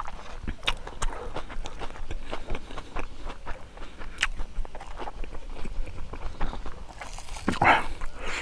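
Close-miked chewing of spicy pig leg meat: wet mouth clicks and smacks scattered throughout. A short vocal sound comes near the end.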